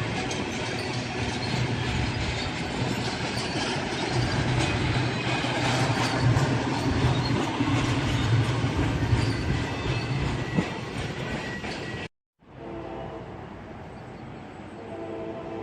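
Railroad cars rolling past close by: steady wheel and rail noise with a thin squeal of wheels at times. It cuts off abruptly about 12 seconds in, and a quieter sound with a few steady tones follows.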